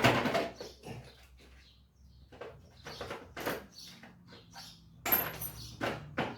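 Irregular clicks, clinks and scrapes of metal hand tools and small parts being handled, as a 6.5 socket or wrench is fetched for the bolts on a Briggs & Stratton engine's ignition coil.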